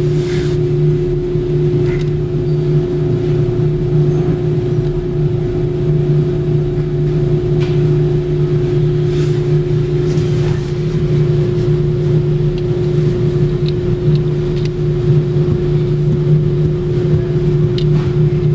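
A motor runs with a steady drone: a constant low hum with a steadier, higher tone above it, and a few faint clicks over the top.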